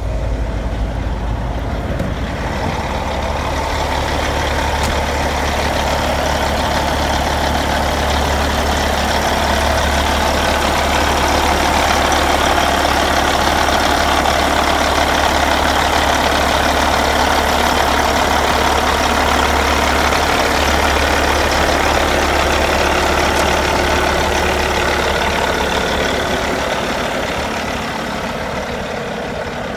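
Caterpillar C15 inline-six diesel of a Peterbilt 388 highway tractor idling steadily, freshly started. It grows louder over the first ten seconds or so and eases off near the end.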